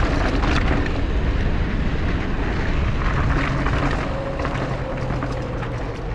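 Mountain bike ride noise: wind rumbling on the microphone, with the bike clattering and rattling over rough, rocky ground.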